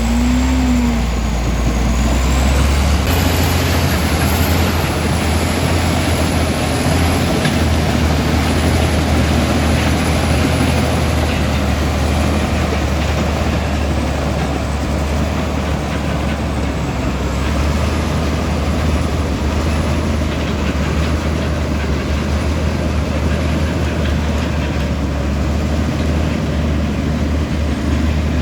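Komatsu D65E bulldozer's diesel engine running steadily under load, a continuous low drone with mechanical noise over it. A faint wavering high whistle sits above it in the first half.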